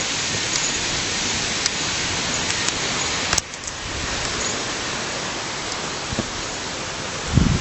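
Steady rushing of stream water, an even hiss with no pitch. It dips suddenly about three and a half seconds in, and a low thump comes near the end.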